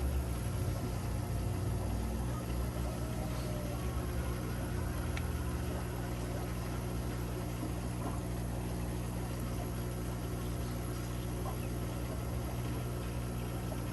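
Aquarium equipment running: a steady low electrical hum with an even hiss over it.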